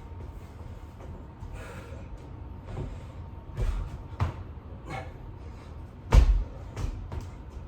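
Dull thuds of a person's hands and feet hitting the floor while doing burpees, several of them at uneven intervals, the loudest about six seconds in.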